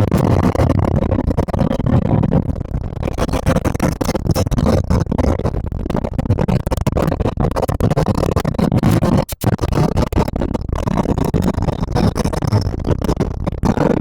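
Wind buffeting a microphone on a motorcycle moving at speed, a loud ragged rush with engine noise underneath; the sound cuts out for a moment about nine seconds in.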